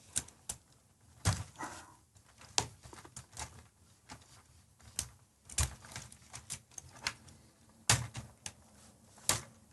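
Plastic LEGO Technic parts clicking and knocking as they are handled and pressed together on the model: scattered irregular sharp clicks, with a few louder knocks spread through.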